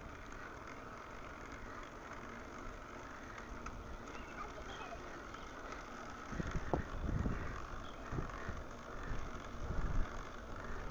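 Steady hiss of a bicycle ride, with wind gusts rumbling on the microphone from about halfway through.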